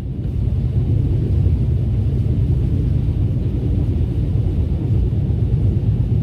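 Steady low rumble of a moving vehicle heard from inside the cabin, even and unbroken throughout.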